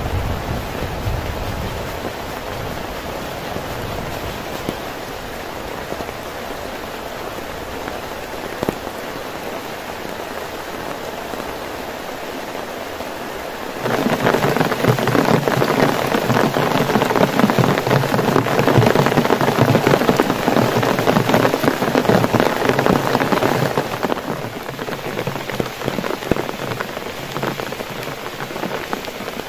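Heavy rain falling steadily on a camping tarp and forest leaves. About halfway through it turns louder and closer, drops pattering hard on a hanging plastic rain poncho, then drops back to the steady rain some ten seconds later.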